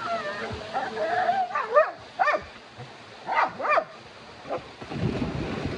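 A dog whining and yipping: wavering whines in the first second or so, then several short high yelps, over the steady rush of a waterfall.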